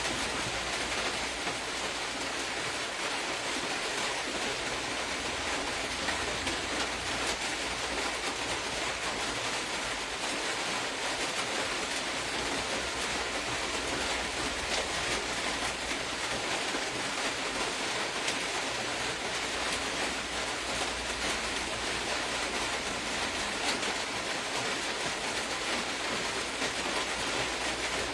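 Steady hissing background noise with no pauses or changes, over a faint low hum.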